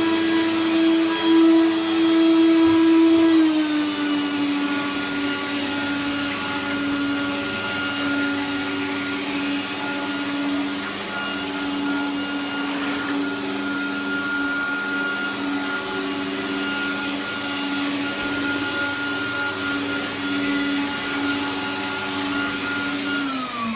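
Hoover Turbopower 1000 upright vacuum cleaner running; its motor pitch drops a little about three and a half seconds in and then holds steady, and near the end it is switched off and winds down. It is failing to pick up the test dirt, spitting it out behind it.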